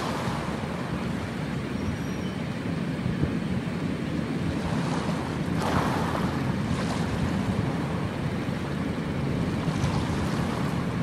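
Steady rushing hiss of rain falling outside, with short louder noises about five to seven seconds in as roasted vermicelli is tipped into a pot of boiling water.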